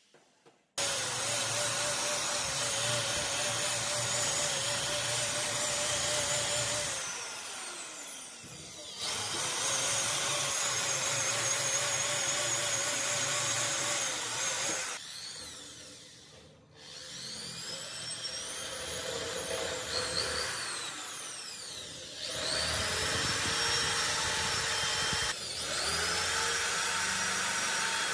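Electric power tool motor running in several long spells, its pitch wavering as it works under load, with short pauses where it winds down and spins back up.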